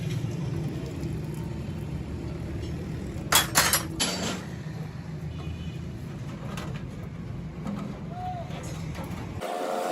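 Steady low mechanical rumble, with a quick cluster of sharp knocks a little over three seconds in.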